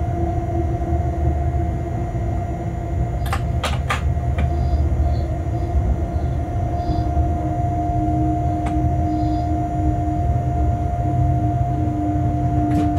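Freight train running along the line, heard from the locomotive cab: a steady low rumble with a steady two-note whine, the lower note dropping slightly in pitch in the second half. A few sharp clicks and knocks come about three to four seconds in and again near the end.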